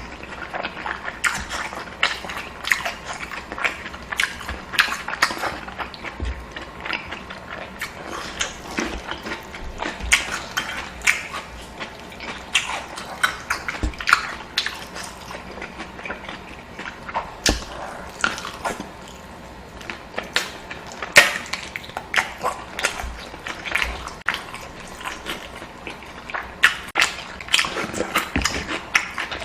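Close-miked eating: chewing and mouth smacking, with a steady run of short, sharp clicks and crackles.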